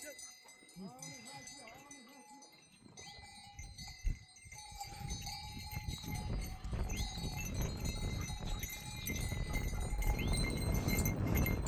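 A flock of goats and sheep bleating, with small bells clinking among them. From about halfway a rushing noise builds up underneath and grows louder.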